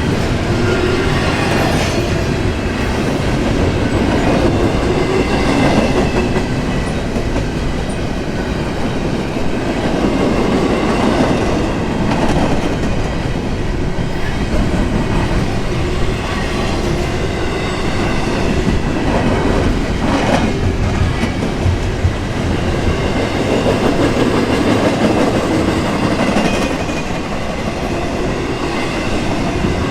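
Intermodal container cars of a freight train rolling past close by: a steady rumble and clatter of steel wheels on the rails, swelling and easing as the cars go by, with a faint high wheel squeal over it.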